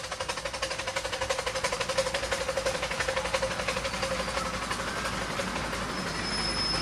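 A miniature railway train running close by with a rapid, even beat of about six or seven pulses a second. A steady tone rides over the beat and fades out a little past halfway.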